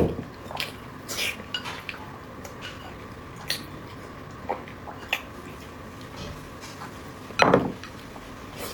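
Eating utensils clicking and clinking against bowls and plates in scattered single taps, with a louder, longer eating sound about seven and a half seconds in, over a faint steady hum.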